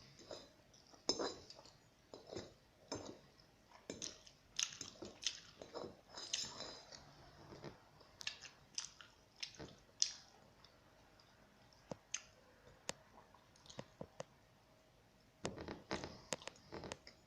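A pet crunching and chewing dry cat kibble: irregular crunchy bites, thick for the first several seconds, then scattered clicks, then another flurry near the end.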